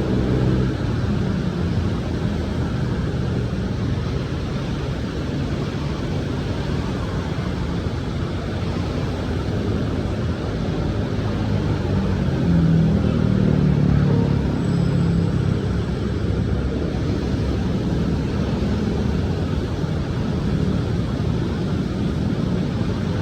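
Steady rumble of city street traffic in the rain, with a continuous wash of noise. A heavier vehicle passes louder about halfway through.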